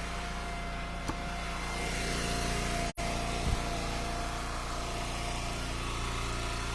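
Eastonmade Ultra wood splitter's engine running steadily, with a light click about a second in and a low thump about halfway. The sound cuts out for an instant just before the thump.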